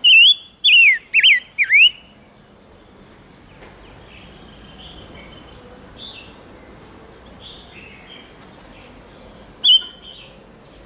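Silver-eared mesia calling: a quick run of loud, down-slurred whistled notes in the first two seconds, softer calls through the middle, and one more loud note near the end. These are decoy calls used to lure and stir up males.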